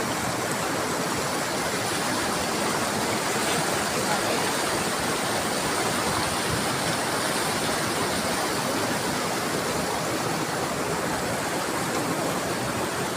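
Steady, even rushing noise of running water, with no breaks or changes.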